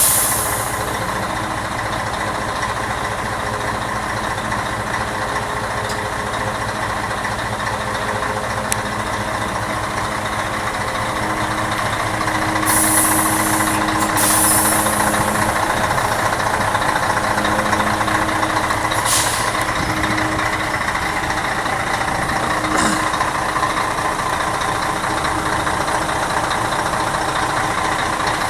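Scania 113 truck's diesel engine running steadily. Hisses of compressed air from the air system come twice in close succession about 13 seconds in, with shorter ones around 19 and 23 seconds.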